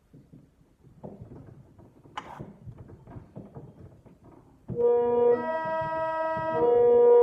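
Faint rustling and knocking with one short click, then about two-thirds of the way in a reed organ starts playing sustained chords, changing chord twice.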